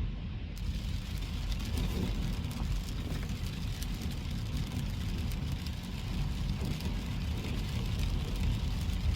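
Car driving on a wet road in the rain: a steady low road-and-engine rumble, with a fine crackling hiss of rain and spray that sets in about half a second in.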